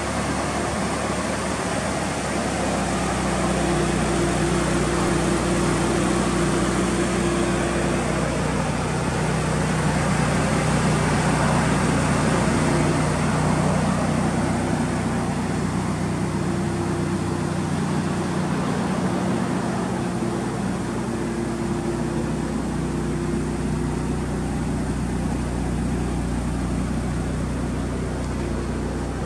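A car engine running steadily at idle, with a low steady hum and a constant background of road noise, a little louder around the middle.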